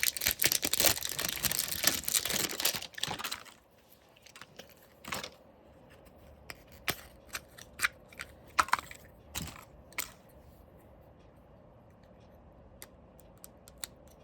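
Packaging being torn and crinkled for a few seconds, then a series of separate light clicks and knocks as parts are handled and set down.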